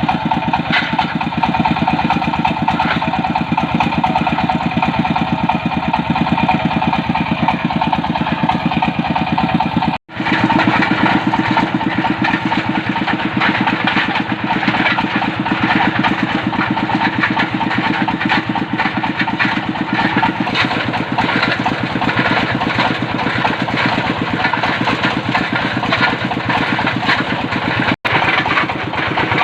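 Diesel engine of a water-well drilling machine running steadily with a rapid, even firing rhythm. The sound drops out for an instant twice, about a third of the way in and near the end.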